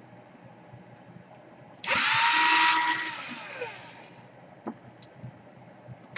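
Small electric screwdriver running for about a second, its motor whine rising as it starts, then winding down; backing out small screws in a laptop. A few light clicks follow near the end.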